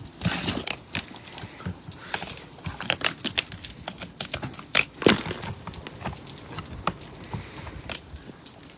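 Irregular taps, clicks and scrapes of ice being chipped and scraped off a car coated in freezing-rain ice, with a few sharper knocks among them.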